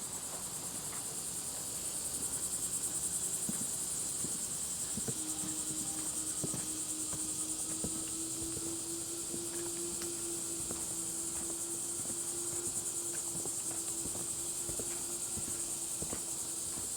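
Steady chorus of insects trilling at a high pitch, with faint scattered footsteps; a low steady hum joins in about five seconds in.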